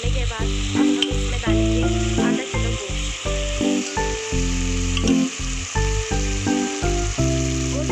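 Spices, green chillies and ginger-garlic paste sizzling in hot oil in a metal cooking pot, stirred now and then with a steel ladle. Background music plays over the sizzle.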